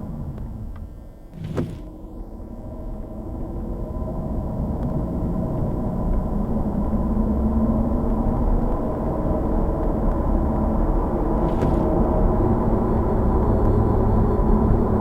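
Car engine and road noise heard from inside the cabin: it dips, a sharp click comes about a second and a half in, then the noise rises steadily as the car picks up speed and settles to a steady cruise.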